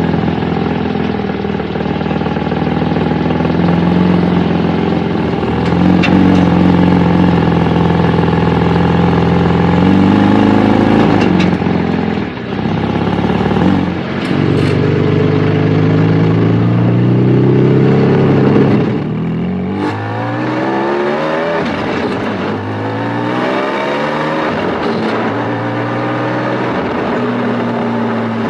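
Porsche 718 Spyder's naturally aspirated flat-six engine accelerating during break-in driving. The pitch climbs over several seconds and drops back again and again, as through gear changes, with quicker, shorter climbs near the end.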